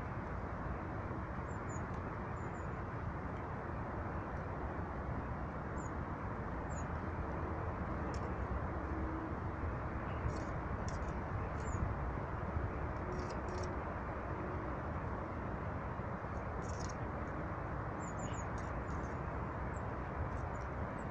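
Small birds giving short, high chirps now and then over a steady rushing background noise.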